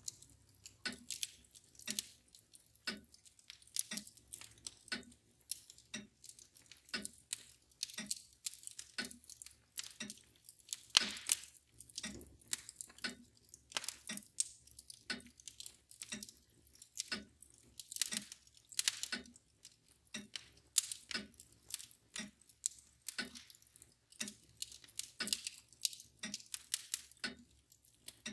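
Fire crackling with irregular sharp pops, over a mantel clock ticking steadily about once a second.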